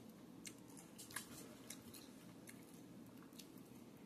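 Faint chewing of cheese-topped fries, with a few soft, short clicks scattered through, over a low room hum.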